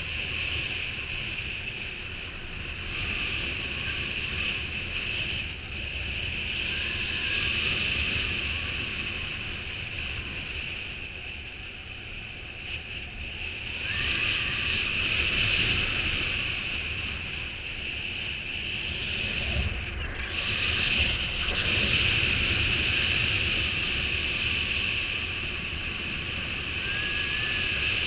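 Wind rushing over the microphone in strong wind during mini-wing paragliding, a steady noise that swells and eases every few seconds.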